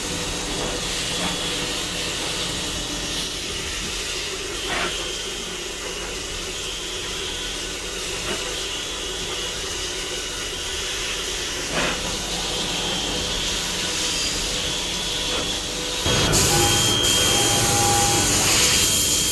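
CNC machine running with a steady hiss, like coolant or air spray, under faint whining tones and an occasional click. About 16 s in it gets louder, with a stronger hiss and steady pitched whines.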